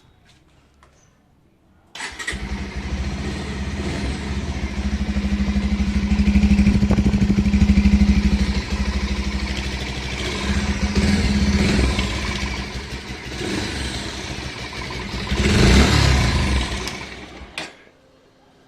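Bajaj Pulsar 150 single-cylinder motorcycle engine starting about two seconds in and running with a steady pulsing exhaust note. It rises and falls in level, loudest around the middle and in a short burst near the end, then cuts off shortly before the end.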